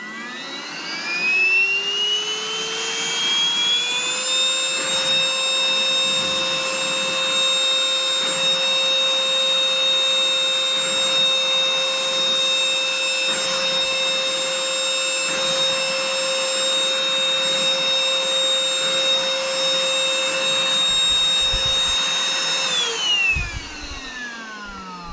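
Reesino 14.8-volt cordless handheld wet/dry vacuum running with its rubber liquid nozzle, sucking up spilled liquid. The motor whine rises over the first few seconds as it spins up, holds steady, then falls away near the end as the motor winds down.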